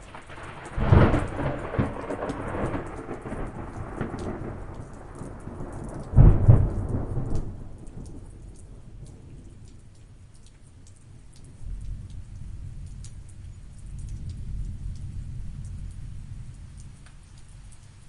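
Thunderstorm: two loud thunderclaps, about one and six seconds in, each trailing off into long low rolling thunder that swells again later, over steady light rain with scattered drops.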